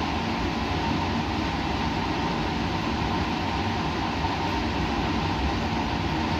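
Steady white-noise background: an even, unchanging rushing hiss with a constant low hum underneath, like ventilation or machinery.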